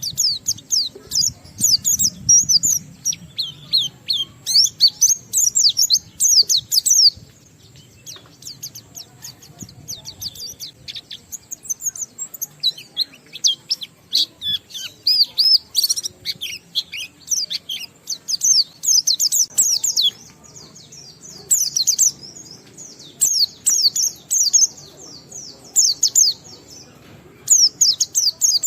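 White-eye (pleci) singing 'ngalas': long runs of rapid, high twittering notes strung together with mimicked material, broken by short pauses.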